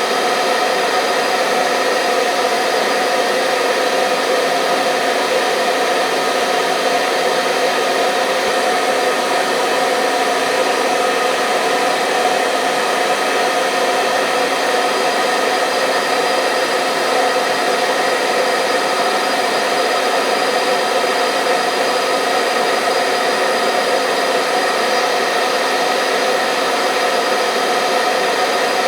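Hair dryer running continuously with a steady fan whoosh and motor hum, played as white noise to soothe a baby to sleep.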